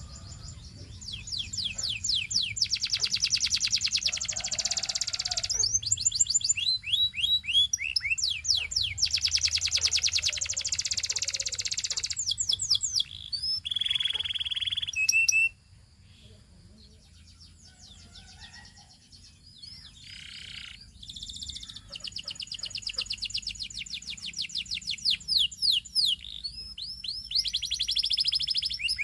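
Domestic canary singing: rapid trills of quickly repeated high notes and buzzy rolls in long phrases. The song drops away for several seconds about halfway, leaving only scattered faint notes, then resumes with fresh trills.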